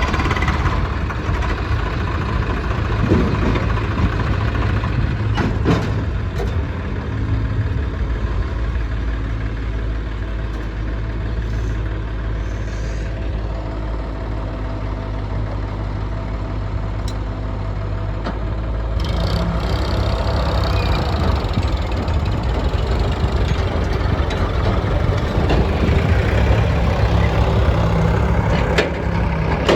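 Diesel engines of a JCB backhoe loader and a farm tractor running steadily while soil is loaded into the tractor trolley, with a few sharp knocks. The engine sound shifts and grows a little louder about two thirds of the way through.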